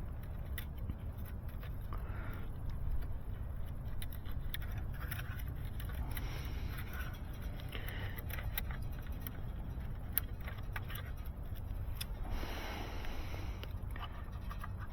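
Scattered clicks, light rattles and scrapes of hands handling fiber splice gear and cable, over a steady low rumble.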